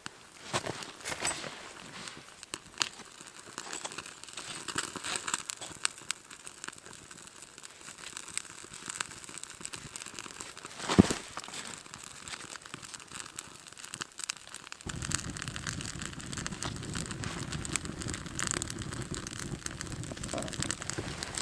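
Crinkling, rustling and snapping of tinder and twigs being handled to start a campfire, with one loud crack about eleven seconds in. About fifteen seconds in, a steady low rushing noise starts and continues under the crackling.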